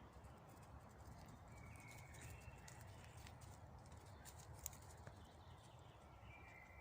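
Faint forest ambience near silence: a distant bird's short whistled notes twice, about two seconds in and near the end, over a low rumble, with scattered light clicks and one sharper tick past the middle.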